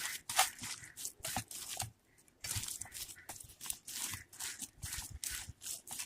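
Hands kneading a wet mixture of minced mutton, ground split-pea paste, chopped onion and coriander in a bowl: short, irregular wet squeezing sounds, about three a second.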